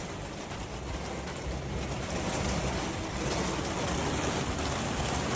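Rain falling steadily in a thunderstorm, a steady rushing hiss that grows a little louder about two seconds in.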